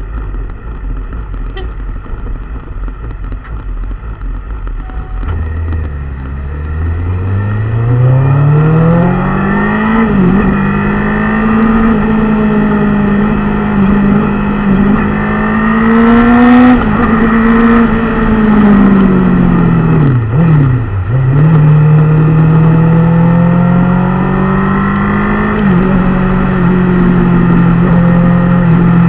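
An engine speeding up smoothly over a few seconds, then held at a steady high speed; about twenty seconds in it drops sharply for a moment and picks straight back up.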